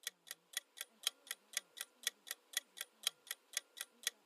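Countdown timer sound effect ticking like a clock, evenly at about four ticks a second.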